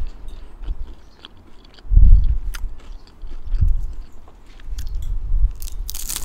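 Close-miked chewing of a mouthful of rice bowl and fried pita chips, with irregular low thuds and small crisp clicks, and a short hiss near the end.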